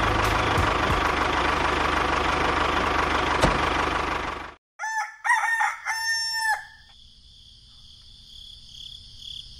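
A tractor engine runs steadily and cuts off suddenly about four and a half seconds in. A rooster crows about a second later, then crickets chirr faintly and steadily.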